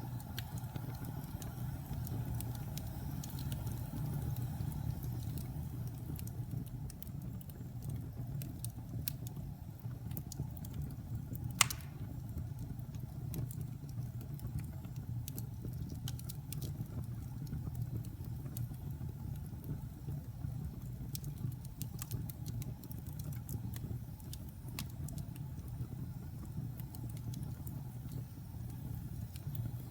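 Wood fire in a fireplace crackling: scattered sharp pops and snaps, with one loud pop a little over a third of the way in, over a low steady rumble of the burning fire.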